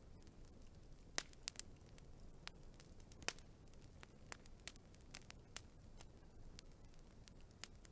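Wood fire crackling faintly: irregular sharp pops and snaps over a low, soft rumble, the loudest pops about a second in and just after three seconds.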